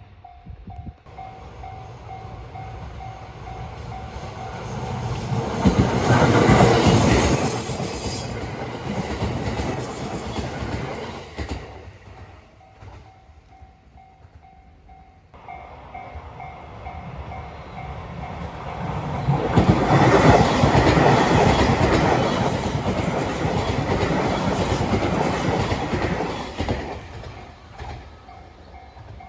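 A level-crossing warning bell ringing in an even on-off pulse, then a train passing over the crossing with its wheels clattering over the rail joints, loudest about six to eight seconds in. After a quieter spell the crossing bell rings again and a second train passes loudly with the same clattering from about twenty seconds in until near the end.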